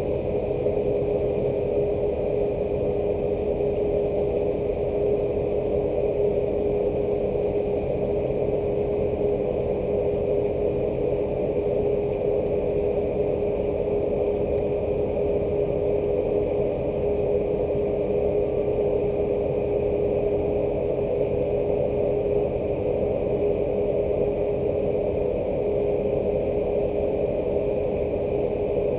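Steady rain mixed with a constant mechanical hum that holds one steady pitch, like an idling engine or running machinery.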